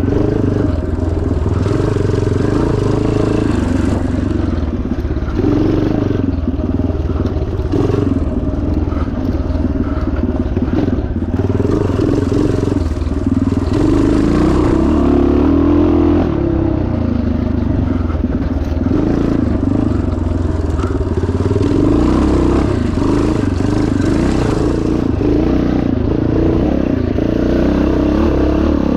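1977 Yamaha TT500's single-cylinder four-stroke engine running hard as the motorcycle is ridden off-road, its pitch rising and falling again and again as the throttle opens and closes.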